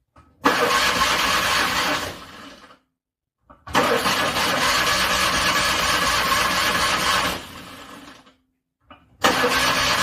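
Car engine cranked on its starter in freezing cold, three tries: a short one, a longer one of about three and a half seconds, and a third starting near the end. The first two trail off without the engine catching, a cold engine struggling to start.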